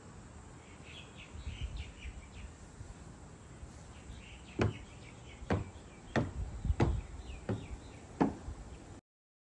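Faint bird chirping over quiet outdoor background noise. In the second half come about six sharp knocks, roughly a second apart. The sound cuts off suddenly near the end.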